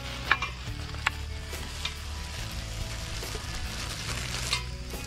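Onions frying in hot oil in a kadhai, a steady sizzle, with a few short crinkles and knocks as raw mutton pieces are tipped out of a plastic bag into a steel bowl.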